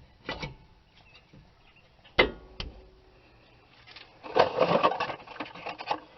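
Metal knocks and clatter from hand work on a rear disc brake caliper and its tools. A few single knocks come first, one of them ringing briefly. A busy run of clattering follows in the second half.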